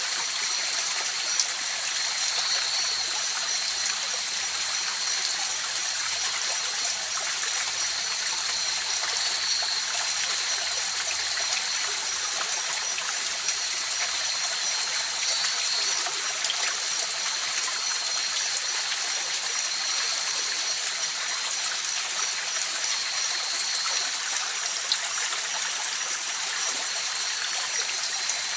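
A mountain river flowing steadily, an even rush of water over stones. A thin, steady high-pitched tone runs over it and drops out for a couple of seconds near the end.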